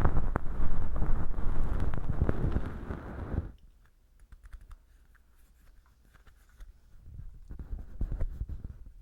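Bonten feather earpick rustling and scratching in a velcro-lined dummy ear packed with dry fake earwax, a close, crackly scraping. It stops about three and a half seconds in and comes back fainter near the end.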